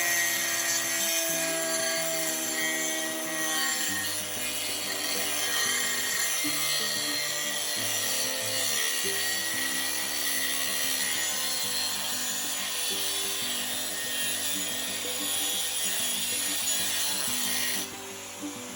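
Grinder with an abrasive wheel working steel, a steady rasping grind that drops off briefly near the end, over background music.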